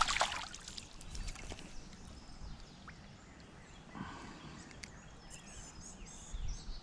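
Quiet outdoor creek ambience with a few faint scattered clicks and a soft knock about four seconds in. Small birds chirp faintly in the last second or two.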